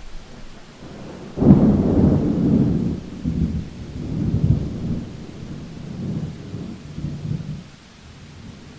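A thunderclap breaks suddenly about a second and a half in and rolls on as a low rumble in several swells, dying away near the end. Steady rain hisses underneath.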